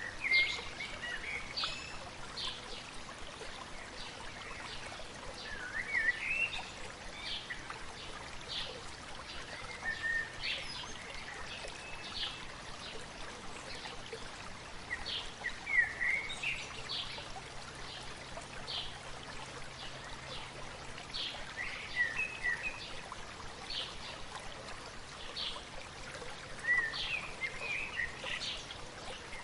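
A stream babbling steadily, with songbirds chirping over it: short high notes every second or two and a fuller chirping phrase about every five seconds.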